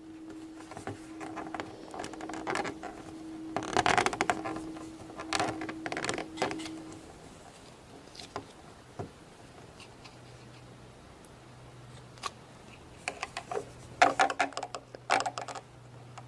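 A plastic Play-Doh popsicle mold being handled and pressed: scattered clicks and rustles, in clusters about four to six seconds in and again near the end, over a faint steady hum for the first several seconds.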